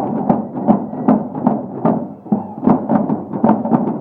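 Procession drums beating a steady march rhythm, about two and a half beats a second.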